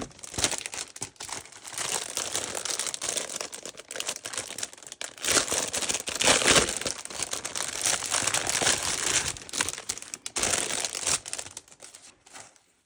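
Packaging crinkling and rustling steadily as it is handled and unwrapped, then stopping shortly before the end.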